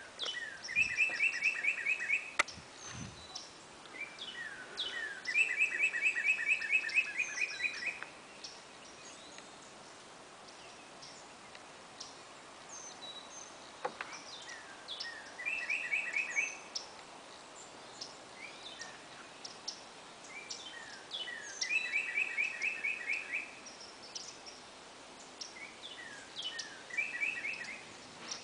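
Wild songbirds singing. One bird repeats a phrase of quick, even notes, about five a second for two to three seconds, five times over, and other birds give short higher chirps in between.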